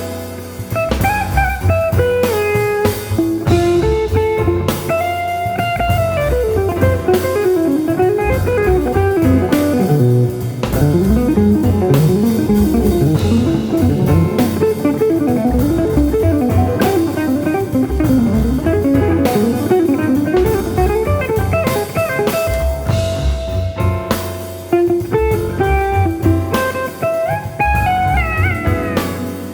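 Modern jazz instrumental: guitar playing a melody with fast winding runs in the middle and longer held notes near the start and end, over a drum kit.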